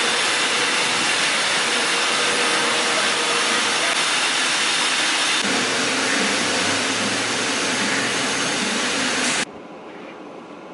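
Car wash running: a loud, steady rushing hiss of spray and blown air. A lower rumble joins about halfway through, and the rush cuts off abruptly near the end, leaving a quiet hum.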